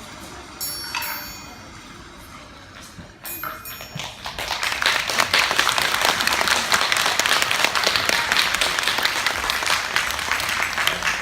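A few chime strikes ring out. About four seconds in, an audience breaks into loud, steady applause.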